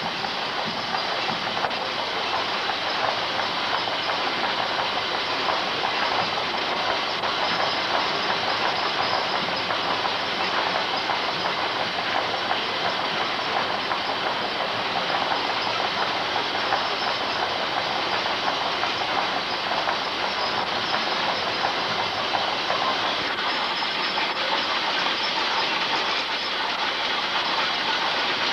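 Stationary steam machinery running: a steady, rapid mechanical clatter with a hiss of steam.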